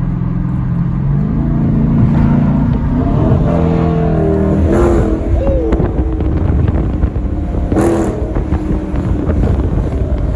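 Straight-piped Dodge Challenger engine running, then revving up about a second in, its exhaust note climbing in pitch as the car accelerates and climbing again a few seconds later.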